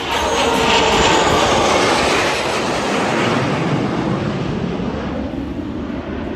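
Jet noise of a Blue Angels Boeing F/A-18 Super Hornet making a fast pass, loudest about a second in. The pitch sweeps downward as the jet goes by, and the noise then slowly fades.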